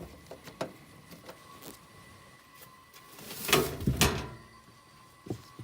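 Handling noise at the furnace: a few light knocks, then about three and a half seconds in a loud scraping rattle lasting under a second, over a faint steady high tone.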